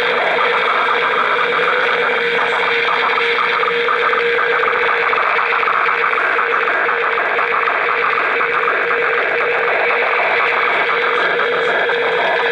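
Realistic DX-200 shortwave receiver tuned near 9 MHz giving out a steady hiss with a constant mid-pitched tone running through it, an unidentified signal on the band.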